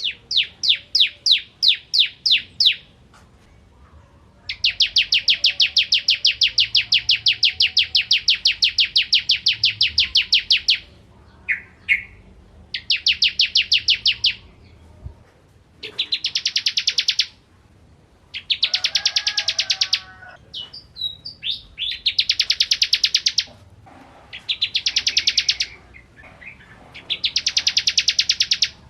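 Bar-winged prinia (ciblek kristal) singing in bouts of rapid, high, repeated notes: first a slower series of about nine notes, then a long fast trill lasting about six seconds, then shorter trilled bursts separated by brief pauses.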